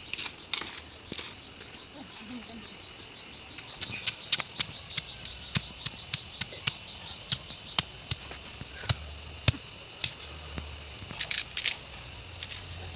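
A run of sharp, short clicks and snaps, irregular at about one or two a second, starting about three and a half seconds in and bunching together near the end.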